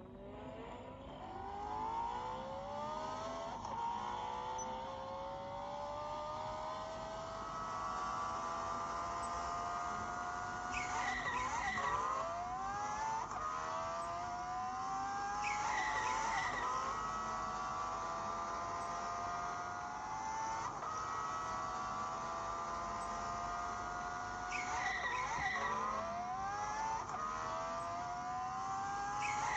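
Race car engine accelerating hard, its pitch climbing and dropping back again and again as it shifts up through the gears, with tyres screeching about three times.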